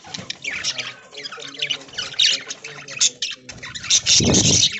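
A flock of budgerigars chattering and squawking, many birds calling over one another at once. Near the end there is a short, loud, low rustle.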